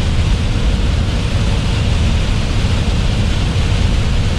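Steady rumble and hiss inside a moving truck cab on a rain-soaked highway: engine and road noise with the wash of tyre spray off the wet road.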